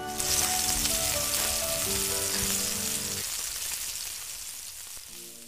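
Sizzle of food frying in a hot pan, set off as the vegetables land. It starts all at once and slowly fades over about five seconds, under a short musical jingle whose notes stop about three seconds in.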